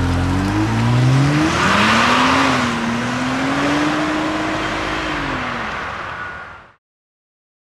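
Opel Signum's 2.8-litre turbocharged V6 accelerating. The engine note climbs for about a second and a half, then a rush of noise comes in and a higher, steadier note holds. That note falls away near the end before the sound cuts off abruptly.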